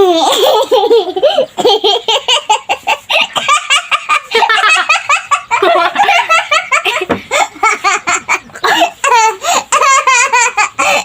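A small child laughing heartily: high-pitched laughter in rapid, repeated bursts, barely pausing.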